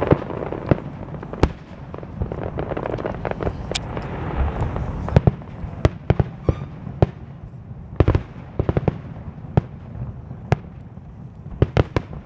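Aerial fireworks shells bursting: a dense crackle of overlapping bangs in the first couple of seconds, then many sharp bangs at irregular intervals.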